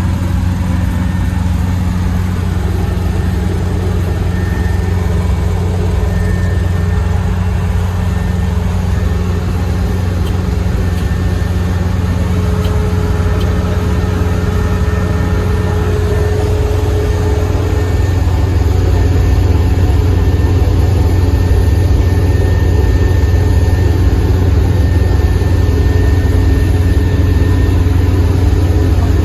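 Kubota ER470 combine harvester's diesel engine running steadily with a deep, even drone. About two-thirds of the way through, the note shifts and gets slightly louder.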